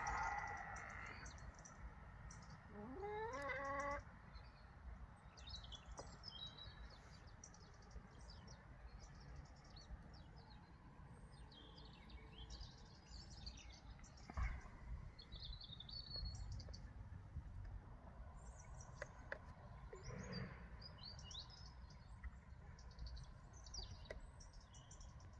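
Birds chirping faintly in the background, a scatter of short high calls. A brief louder rising sound comes about three seconds in, and a single knock about fourteen seconds in.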